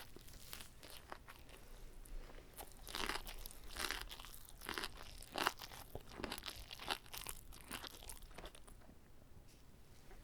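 Close-miked chewing of a whole, uncut gimbap roll: a run of crunchy, crackly chews, busiest in the middle and thinning out near the end.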